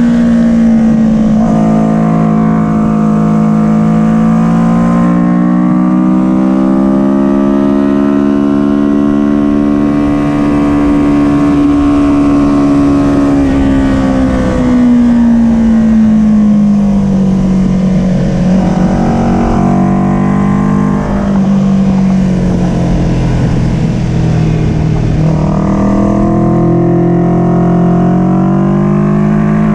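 Kawasaki Ninja 400 parallel-twin engine running continuously. Its pitch climbs slowly for several seconds, sinks back, dips again past the middle and rises once more near the end.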